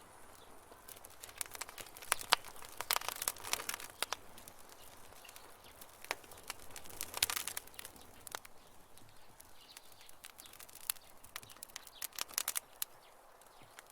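Campfire burning, crackling and popping in uneven clusters of sharp snaps over a low hiss, busiest a second or two in, again around seven seconds in, and near the end.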